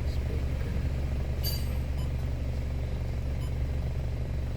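Honda BR-V engine idling steadily after its tune-up, a low even hum, with one short click about a second and a half in.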